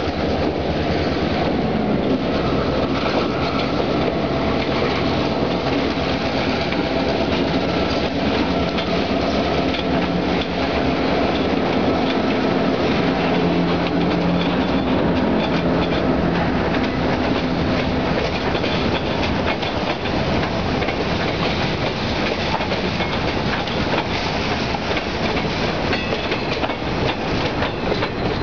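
Diesel freight train passing close by. The locomotives' engine drone gives way to a steady rumble of rolling freight cars, their wheels clicking over rail joints.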